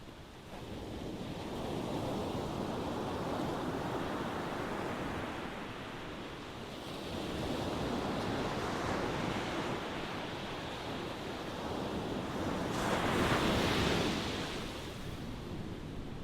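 Ocean waves breaking and washing in, the surf swelling and falling back several times, loudest in a surge near the end.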